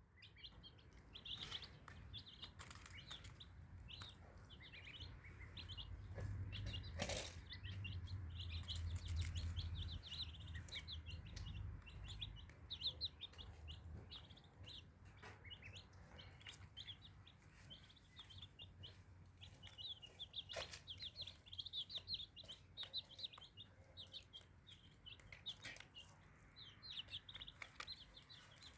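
Chicks and ducklings peeping nonstop in a group, many short high chirps overlapping. There is a low rumble for a few seconds in the first half and a sharp knock about seven seconds in.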